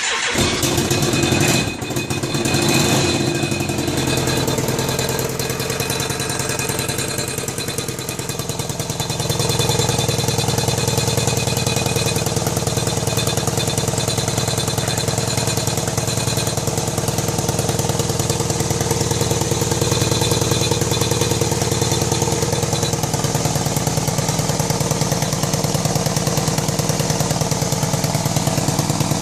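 1999 BMW K1200RS inline-four engine starting and then idling with a rapid clanking rattle and a putt-putt of exhaust. The sound comes from the number 4 exhaust pipe: its two manifold bolts are missing, so the pipe is loose, hitting the exhaust port and leaking. The running gets a little louder about nine seconds in.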